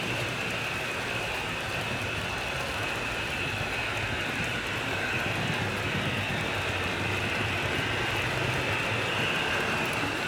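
HO scale model train running on the layout, a steady running noise of wheels on the rails with a high whine over a low hum.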